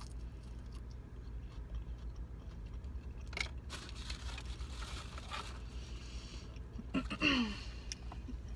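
Close-up chewing and crunching of fried shrimp, with small mouth clicks, over a steady low hum. Near the end comes a brief rustle with a short falling squeak, the loudest sound.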